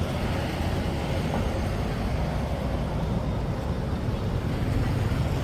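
Steady street ambience: a low, even rumble of road traffic.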